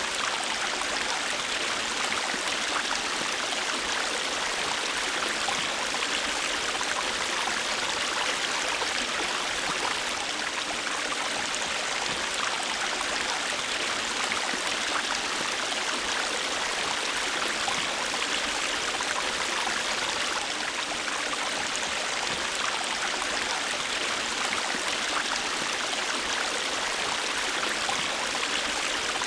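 River water flowing, a steady, unbroken rush with no pauses or changes.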